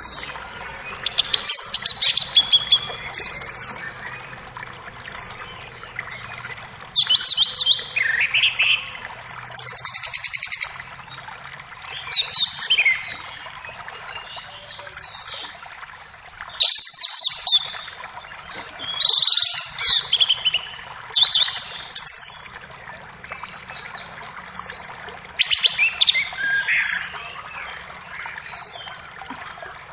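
Forest birds calling, one repeating a short high chirp every second or two among other varied calls and a buzzy trill, over the steady hiss of a flowing creek.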